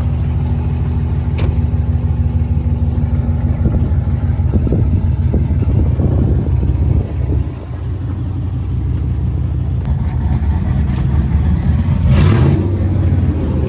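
Truck engine running steadily, dipping briefly about halfway through, with a short burst of louder noise near the end.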